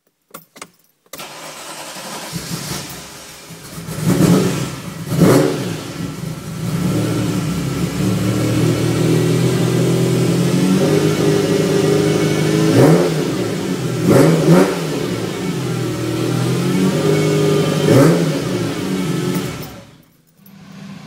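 A car engine starting up about a second in after a couple of short clicks, idling, and revved with about six quick throttle blips; the sound cuts off near the end.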